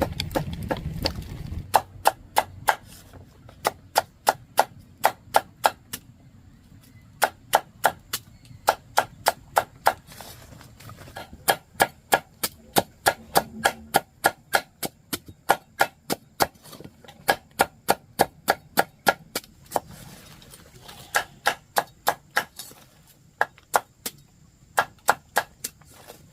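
Rhythmic chopping with a blade on a board, sharp strokes about three or four a second in runs broken by short pauses.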